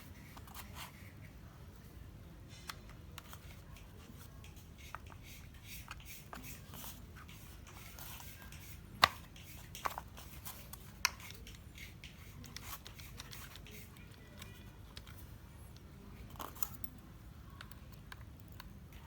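Small clicks and taps of hand work on tool parts at a workbench, with a few sharper clicks about nine to eleven seconds in, over a low steady hum.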